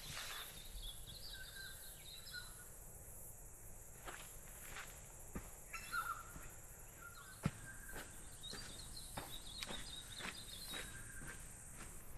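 Footsteps on a bush walking track, with birds chirping and calling now and then over a steady high hiss.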